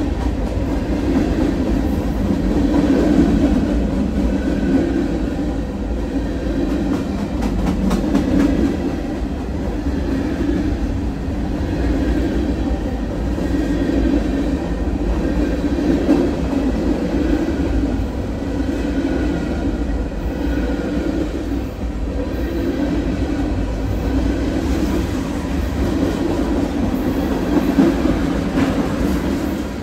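Freight train of hopper and tank cars rolling past at close range on the adjacent track: a steady rumble of wheels on rail with clickety-clack, swelling and easing every couple of seconds as the cars go by.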